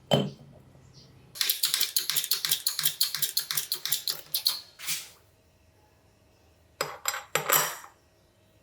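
A sharp knock, then a fast run of crisp clicks, about nine a second for some three seconds. After a pause, two short bursts of clicks come near the end.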